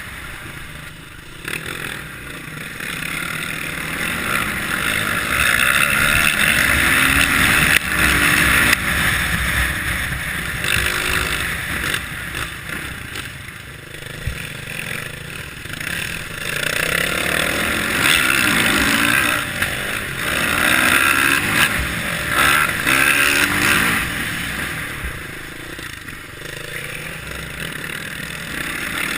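Kawasaki KLX650R's single-cylinder four-stroke engine pulling the bike along an off-road trail, its note rising and falling with the throttle. It gets louder twice, for several seconds each time.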